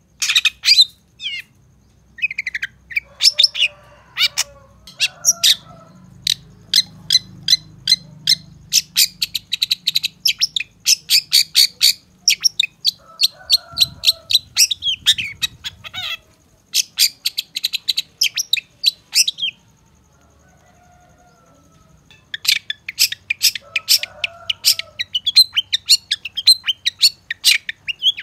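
Long-tailed shrike (cendet) singing in long runs of rapid, sharp chattering notes, broken by a pause of about three seconds some twenty seconds in.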